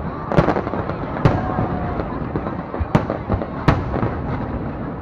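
Aerial fireworks bursting: four sharp bangs over a continuous crackle and rumble of smaller explosions.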